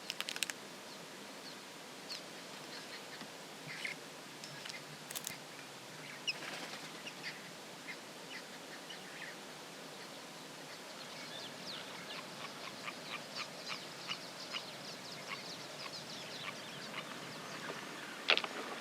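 Birds calling in the bush: scattered short chirps, then a quick run of chirps in the second half, over a steady background hiss.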